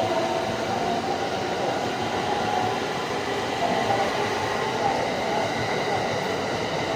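A train running at a station, a steady noise of wheels and motors with a faint high whine, holding level throughout.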